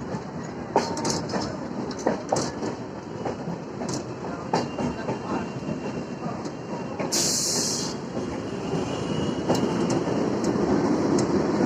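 Suburban electric local train running, its wheels clicking irregularly over rail joints beneath a steady rumble. A brief loud hiss comes about seven seconds in.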